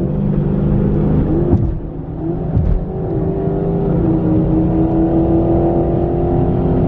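V8 muscle-car engines revving hard: the engine note climbs in several quick rises over the first three seconds, then holds high and steady at sustained revs.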